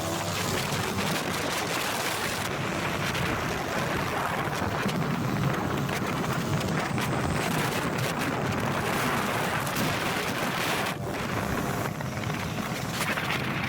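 Motorcycle engine running while riding, with steady wind rushing over the microphone.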